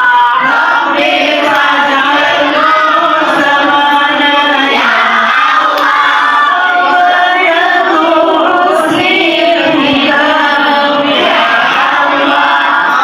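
A group of voices, likely schoolchildren, singing sholawat (Islamic devotional praise of the Prophet) together in unison, continuous and loud.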